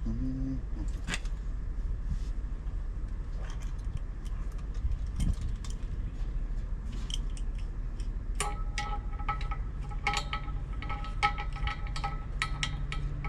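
Small metal clicks and clinks of tools and hardware being handled during a blower motor swap. A quick jingling run of them starts about eight seconds in and goes on almost to the end, over a steady low hum.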